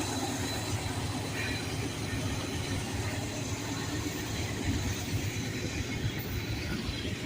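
Norfolk Southern freight train rolling upgrade: a steady heavy rumble of cars and diesel locomotives working hard under load, with a thin, steady high wheel squeal over it.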